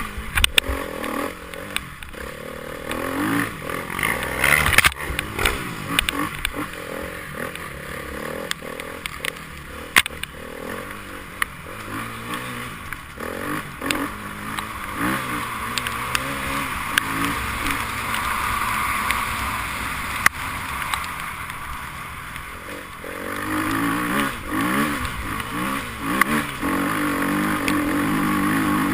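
Enduro motorcycle engines revving up and down, with scattered sharp clicks and knocks; near the end an engine holds a steadier, louder note.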